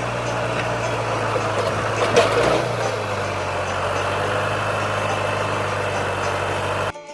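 A motor vehicle engine running steadily, a low hum with a rough noise above it. There is a single knock about two seconds in, and the sound cuts off suddenly near the end.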